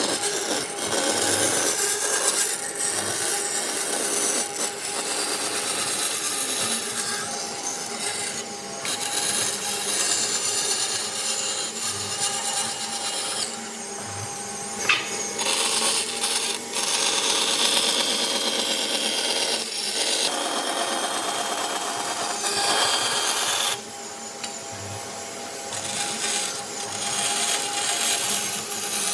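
Tools working wood, a continuous noisy cutting and rubbing sound that rises and falls, drops back briefly twice and has one sharp knock midway.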